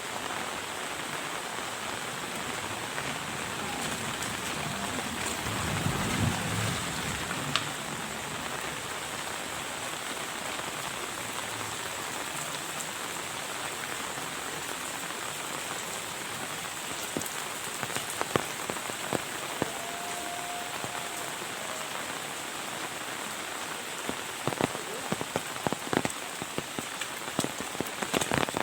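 Heavy rain falling steadily, with a low rumble about six seconds in. Loud individual drops start hitting close by in the second half and come thicker near the end.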